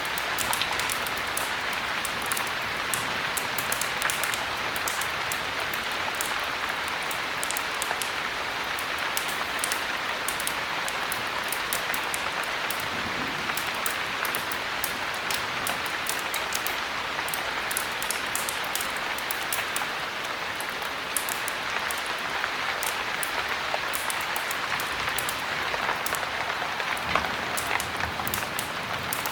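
Steady heavy rain: a dense, even hiss scattered with many small sharp ticks of drops.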